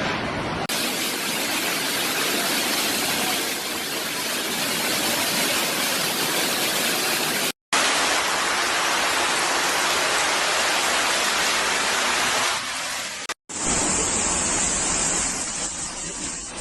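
Loud, steady rushing noise with no distinct events, like storm wind and rain or rushing water. It cuts off to silence briefly twice, about halfway through and again near the end, then resumes, the last stretch a little duller.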